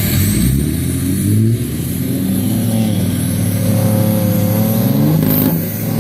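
Truck engine revving hard, its pitch climbing and falling repeatedly as it strains in deep mud without making headway.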